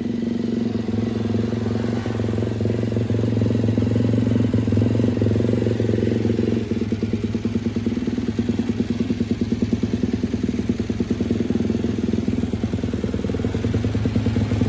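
Moto3 racing motorcycle's 250 cc single-cylinder four-stroke engine running during warm-up, held at a steady raised speed, then about seven seconds in dropping to an uneven, pulsing idle.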